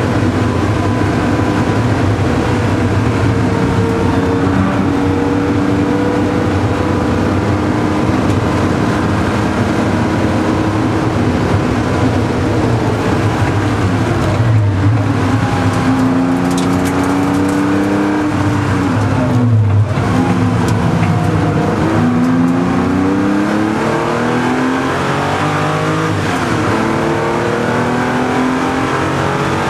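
Air-cooled flat-six of a 1973 Porsche 911 RS heard from inside the cabin at speed. It runs at steady high revs, drops in pitch as it slows for a bend a little past halfway, with a brief break at a gear change, then climbs again in several rising sweeps as it accelerates up through the gears.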